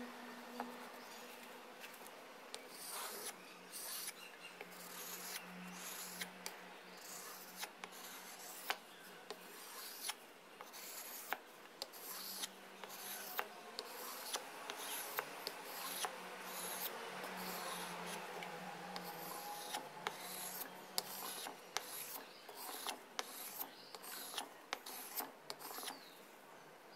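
Rubbing and scraping hand work with many small irregular clicks, over a faint steady hum.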